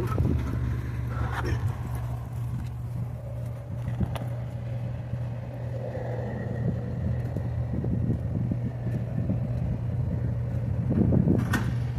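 A vehicle engine idling with a steady low hum, with a few light knocks of metal parts being handled.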